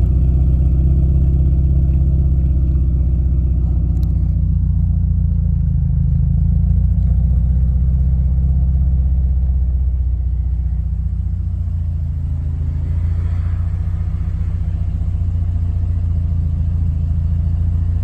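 Subaru Impreza's swapped-in JDM flat-four engine running steadily with a low rumble, dipping slightly in level around ten seconds in.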